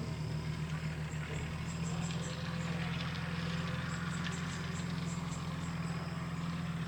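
A steady low motor hum runs throughout, with short high chirps scattered over it.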